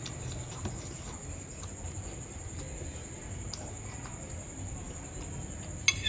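Quiet mouth-closed chewing of balut with faint clicks, then a sharp metallic clink near the end as a metal spoon strikes the bowl. A steady high-pitched whine and a low rumble run underneath.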